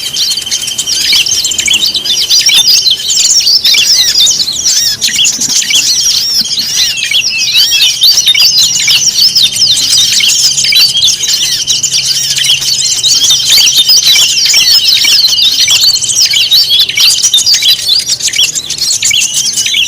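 Dense, loud chorus of many small songbirds chirping and calling over one another: a noisy bird-lure mix played to draw wild birds in. A steady high tone runs beneath it for the first few seconds and again through the middle.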